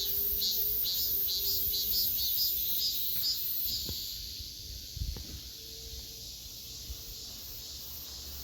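Cicadas calling in a pulsing rhythm, about two pulses a second, fading after about three seconds into a fainter steady high insect buzz. A couple of low thumps come about four and five seconds in.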